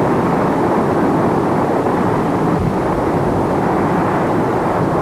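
Steady, loud rumbling roar of a power station's concrete and steel structure collapsing just after the explosive demolition blast.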